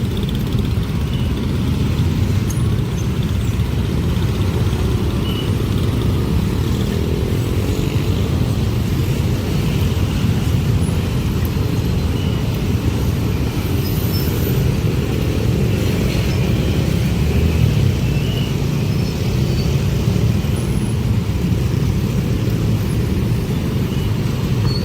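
A train passing close by at a level crossing: a loud, steady low rumble of wheels and carriages rolling on the rails.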